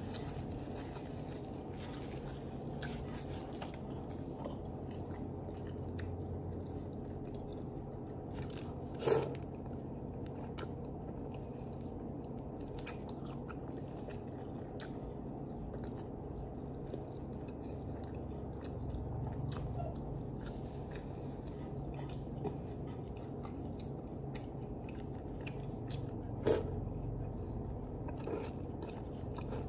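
A person chewing and biting soft bread, with wet mouth sounds and small clicks throughout. A steady low hum runs underneath. Two sharper clicks stand out, about nine seconds in and near the end.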